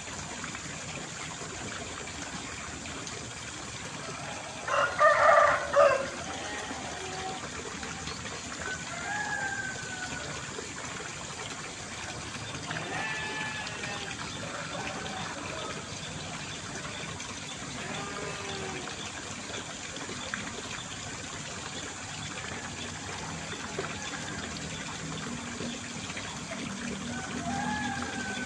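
Steady rush of running water, with a rooster crowing loudly once about five seconds in and a few shorter, fainter calls scattered through.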